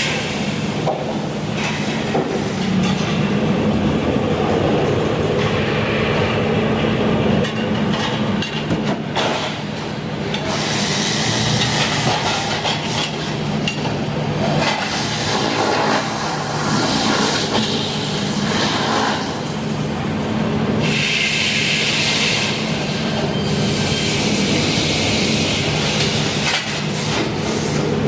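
Sawmill running under load: its engine holds a steady hum while the blade cuts through a log, with a hissing cutting sound that swells and fades in stretches.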